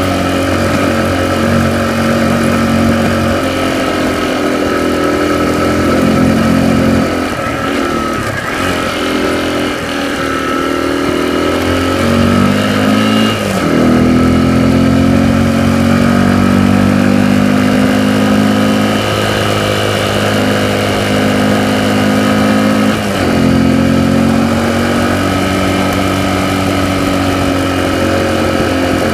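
A vehicle's engine heard from inside the cabin while driving, running steadily. Its note sags about a third of the way in, climbs again, and drops suddenly near the middle. It dips once more briefly later on.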